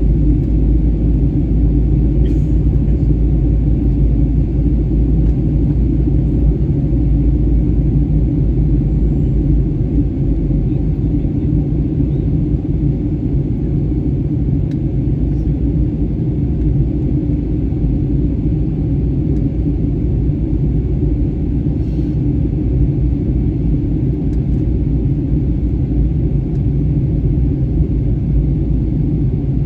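Steady low rumble of a Wizz Air Airbus A320-family jet airliner in descent, as heard in the cabin: engine and airflow noise. Faint clicks come about two seconds in and again near the middle.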